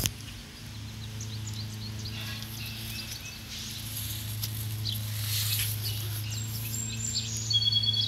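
Outdoor ambience: wild birds chirping in short scattered calls over a steady low hum, with a couple of clearer high calls near the end.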